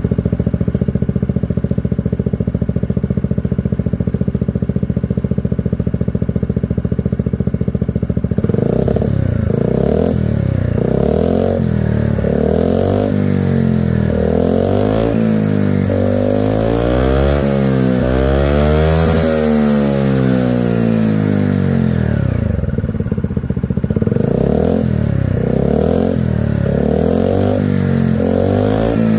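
Honda PCX125 scooter's single-cylinder four-stroke engine through an IXIL XOVC aftermarket silencer. It idles steadily for about eight seconds, then is revved in quick blips about once a second. Around the middle comes one longer rev that climbs and falls back, followed by more short blips near the end.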